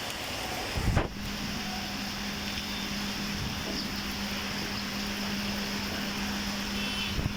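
Steady hiss of heavy rain. A low thump comes about a second in, and after it a steady low hum runs under the rain.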